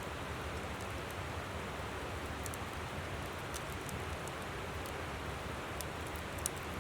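River water rushing steadily, with a wood campfire crackling over it in scattered sharp pops; one louder pop comes near the end.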